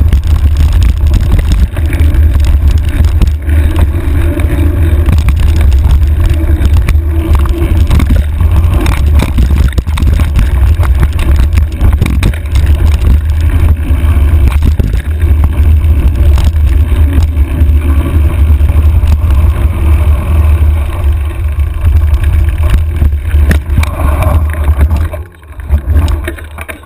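Heavy wind buffeting on a handlebar-mounted camera's microphone while riding, with frequent knocks and rattles from the bike going over rough trail. It eases off briefly near the end.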